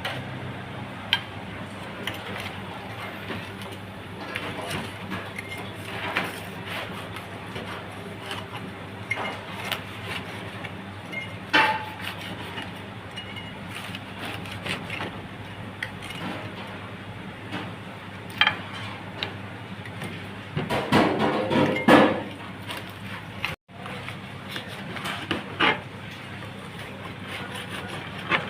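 Scattered knocks and clinks over a steady low hum, with a denser stretch of clattering about 21 seconds in.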